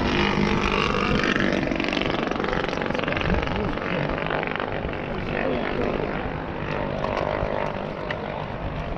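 A radio-controlled model Bronco aircraft's engine running steadily at idle (on tick over), with voices talking in the background.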